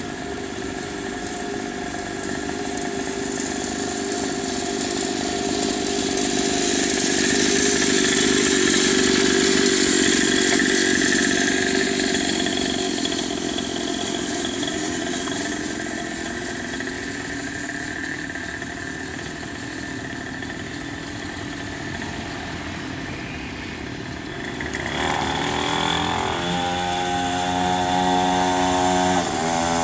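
A 50cc mini motocross bike's small engine running as it is ridden about, growing louder to a peak about a third of the way in and then fading. About five seconds before the end it comes in close with a clearer, steady engine note.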